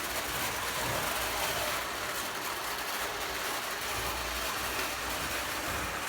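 Prewar Lionel O gauge model train running on its track, a steady, even running noise with a low rumble.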